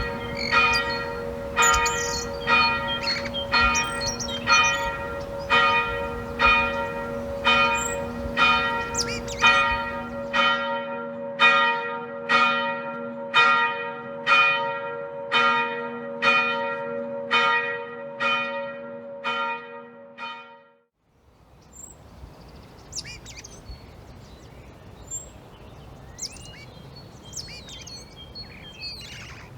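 A single church bell tolling in quick, even strikes, about three every two seconds, its low hum ringing on between strikes, until it fades out about twenty seconds in. Faint bird chirping follows.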